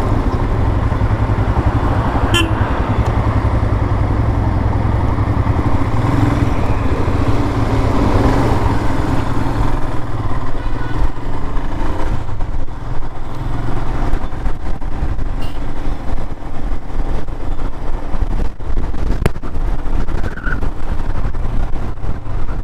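Royal Enfield Himalayan's single-cylinder engine running steadily while riding at speed, with heavy wind noise buffeting the microphone.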